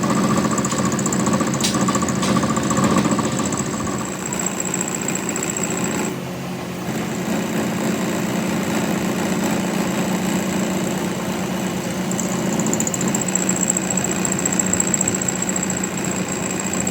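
A machine running steadily, with a high whine over a low hum. A few sharp clicks come in the first three seconds, and its sound shifts about six seconds in.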